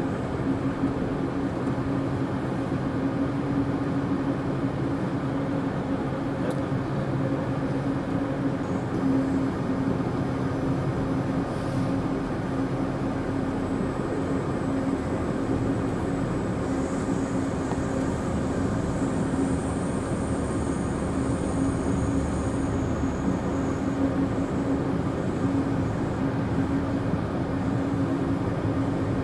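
Steady rumble of an Amtrak Empire Builder Superliner passenger car rolling along the track, heard from on board, with a constant low hum underneath.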